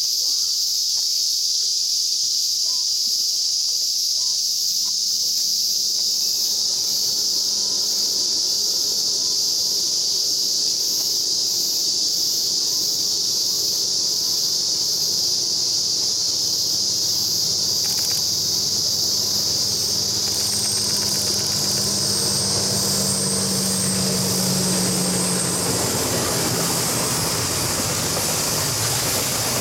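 A DF200 diesel-electric locomotive approaches: its engine hum, a steady low tone, rises out of a loud, steady high insect drone from about five seconds in and grows louder. In the last few seconds the rumble of the container wagons' wheels on the rails fills in beneath the drone.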